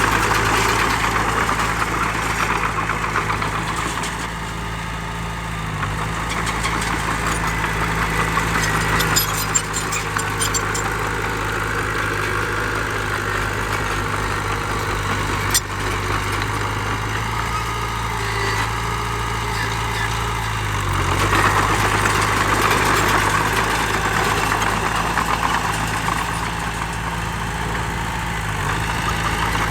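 Heavy diesel engine of earthmoving machinery running steadily at a low, even pitch, with a rough clattering noise over it that swells and fades. A single sharp click sounds about halfway through.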